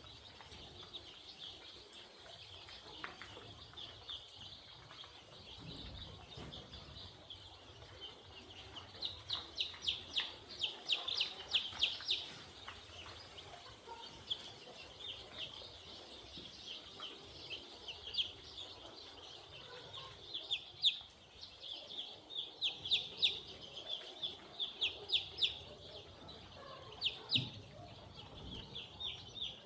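A flock of young chickens peeping: a steady chorus of high calls, with louder runs of quick repeated peeps about ten seconds in and again after twenty seconds.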